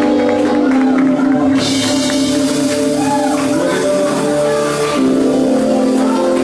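Live gospel band music: sustained chords held steady, with bright shimmering percussion joining about a second and a half in.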